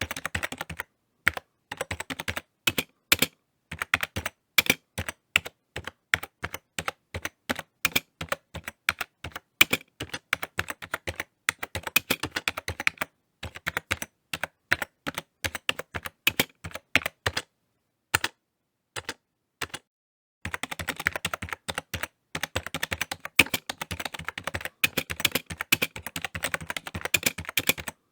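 Typing on a computer keyboard: bursts of quick key clicks broken by short pauses. About two-thirds through there is a pause of a few seconds with only a couple of stray keystrokes, then a fast, unbroken run of typing.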